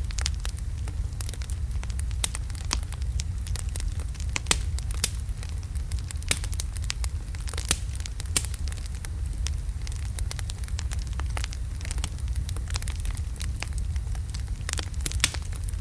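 Wood logs burning in a fireplace, crackling with frequent sharp pops and snaps over a steady low rumble.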